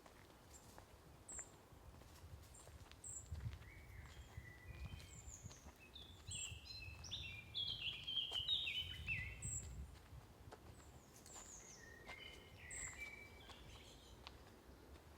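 Forest songbirds singing. A song of quick, stepping-down notes comes loudest around the middle and again a few seconds later, with thin high chips scattered throughout over a faint low rumble.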